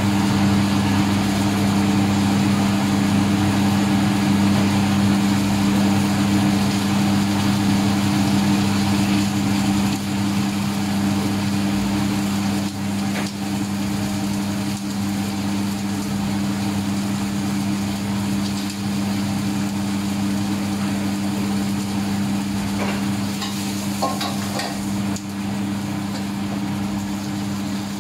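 Food sizzling as it fries in hot oil in a wok, over a steady, loud, low mechanical hum. A few light scrapes and clinks of a metal ladle come in the second half.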